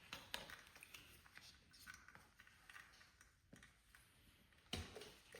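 Near silence with faint scattered clicks and light handling noises, and one sharper knock near the end.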